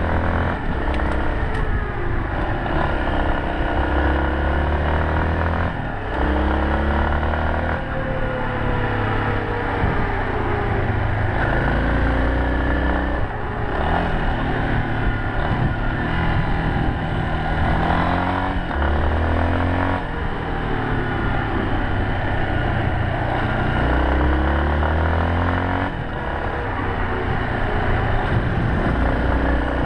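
Yamaha Serow 250's single-cylinder four-stroke engine under way, its revs rising and falling over and over, with a brief drop every few seconds.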